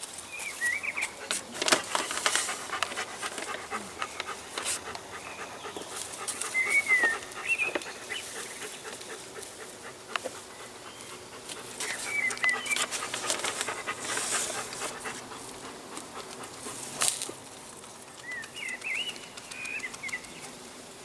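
Rustling and scraping of hands working potting soil and plants in a garden pot, with irregular clicks and short bursts of noise. A small songbird chirps a brief phrase four times.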